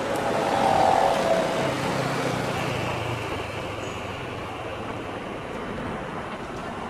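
Road traffic noise from a busy roadside, with a louder swell and a short mid-pitched tone about a second in, then settling to a steady, slowly fading rumble.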